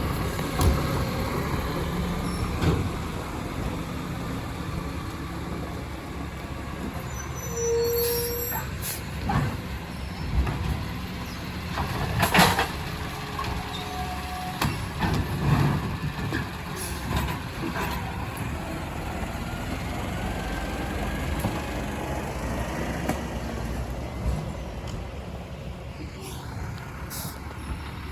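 Side-loader garbage truck's diesel engine running steadily, with scattered knocks and a sharp burst of hiss about midway.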